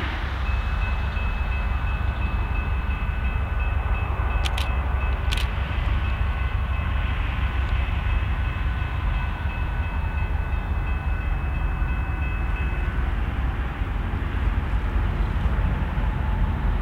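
Diesel freight train rolling past with a steady low rumble. The locomotive horn sounds one long, steady chord that starts right away and stops about 13 seconds in. Two sharp clicks come around the fifth second.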